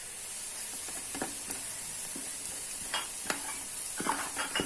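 Onions frying in oil and ghee sizzle steadily in a pan, while spice powder is stirred in. A spatula scrapes against the pan several times.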